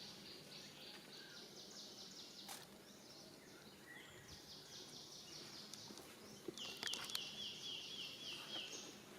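Outdoor animal ambience: high-pitched trills, each a quick run of short repeated notes at about eight a second, with a louder, lower trill of downward-sliding notes about seven seconds in. A few sharp clicks.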